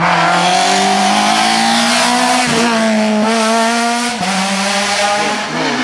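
Rally car engine accelerating hard, its pitch climbing steadily, with quick upshifts about two and a half and four seconds in.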